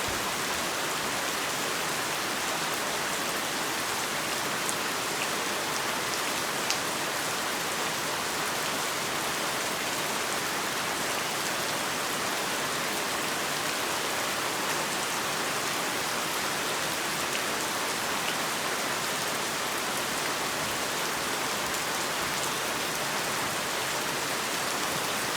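Heavy rain falling steadily, a dense even hiss with the odd distinct drop striking a surface.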